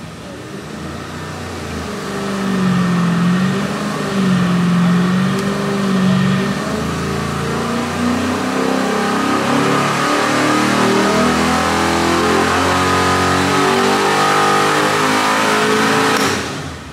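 540 cubic-inch big block Chevy V8 on an engine dyno, pulling at full throttle in one long sweep toward 6,400 rpm, its note climbing and getting louder throughout, then cutting off suddenly near the end as the throttle closes. At the top of the pull the hydraulic-roller valvetrain begins a slight valve chatter, which is normal for a hydraulic roller engine at that speed.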